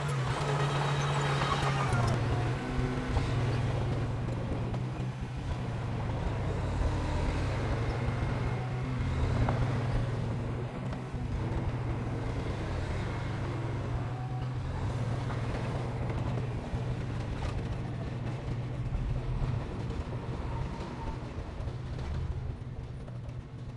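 Heavy construction machine's diesel engine running steadily with a low, even drone. It fades somewhat near the end.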